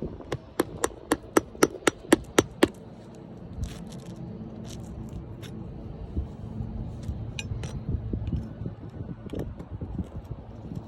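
About nine sharp hammer strikes in quick succession, roughly four a second, then lighter clicks and scraping as the tools work old roofing nails and asphalt shingles loose.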